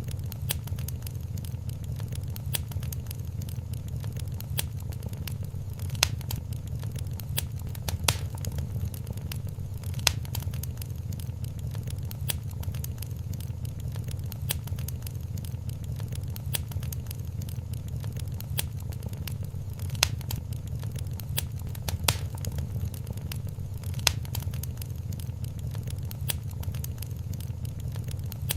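Wood fire crackling in a fireplace: a dense run of small snaps with a few louder pops, over a steady low rumble of the flames.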